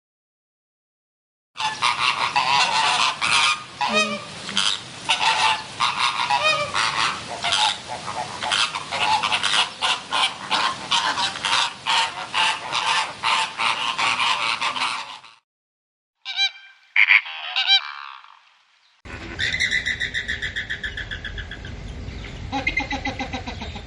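A flock of large birds honking and calling over one another in a dense, continuous chorus that cuts off about 15 seconds in. After a short pause there is a brief burst of calls, then a different recording of rapid, repeated bird calls.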